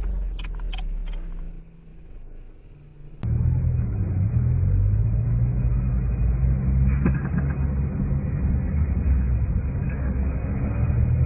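Car engine running as heard from a dash cam inside a vehicle: a low hum whose pitch shifts a little, quieter for a moment before a cut about three seconds in to a louder, duller recording. A single click about seven seconds in.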